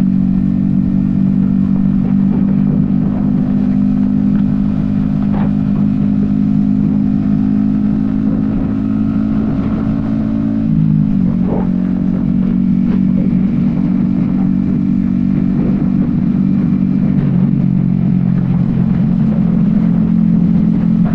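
Yamaha XSR155's single-cylinder engine running at steady cruising revs on the highway, heard from a helmet-mounted camera with the rush of wind. The engine pitch drops slightly about halfway through, then holds steady again.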